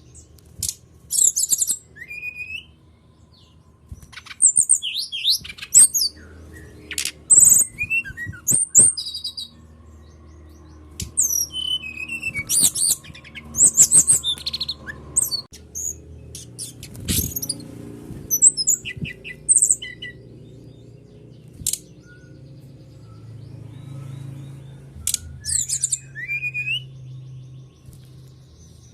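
Songbird singing in bursts of rapid high chirps, trills and short whistled glides, played as a lure song to set other birds singing. A steady low hum runs underneath.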